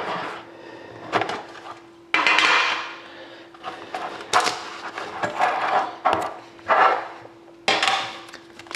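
Trading card box and packs being handled and opened: irregular knocks, clicks and rustling of packaging, over a faint steady hum.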